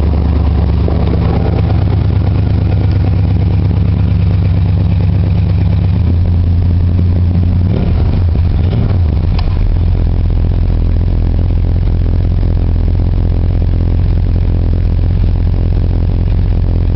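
Chrysler 400 cubic inch big-block V8 running steadily, still warming up after a cold start. The engine note changes about six seconds in, with a brief glide in pitch around eight to nine seconds.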